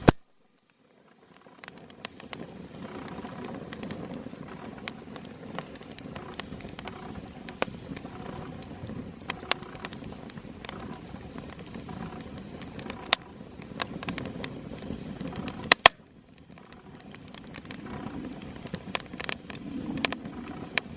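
Small campfire crackling, with irregular sharp pops of burning wood over a steady low rush. The sound drops off suddenly about sixteen seconds in, then builds back up.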